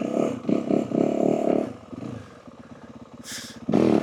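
Yamaha WR450F single-cylinder four-stroke dirt bike engine revved hard in uneven bursts during a wheelie attempt. It drops to a low, pulsing idle about two seconds in, then revs up sharply once more near the end.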